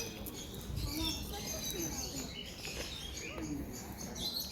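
Several small birds chirping and twittering in quick, overlapping calls, with faint voices of people underneath.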